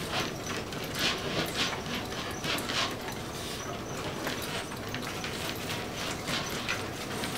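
Water splashing in short, irregular bursts, roughly two a second, as a dog moves through water during aquatic therapy.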